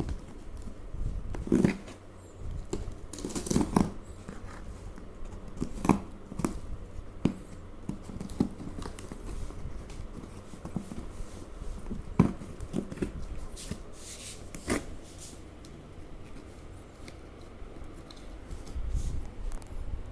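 A shipping package being handled and opened by hand: irregular knocks, clicks and rustling of the packaging, busiest in the first half.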